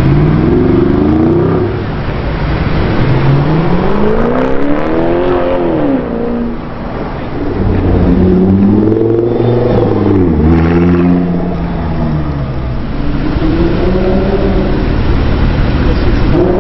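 Car engine being revved, its pitch climbing and falling back about four times.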